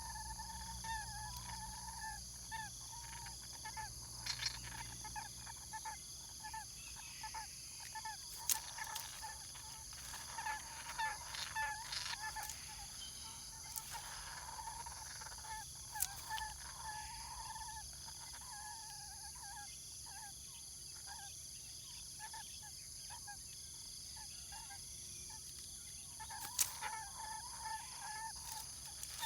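Short bird call notes repeated in uneven series, fading out for several seconds in the second half and returning near the end, over a steady high-pitched drone, with a few sharp clicks.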